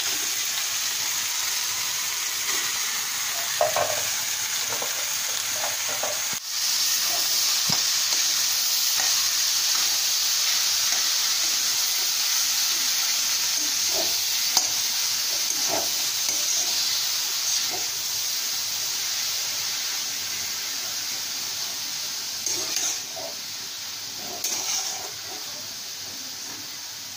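Grated beetroot and chicken sizzling in hot oil in a kadai, stirred with a metal spatula that scrapes and knocks against the pan now and then. The sizzle steps up sharply a few seconds in and eases off somewhat near the end.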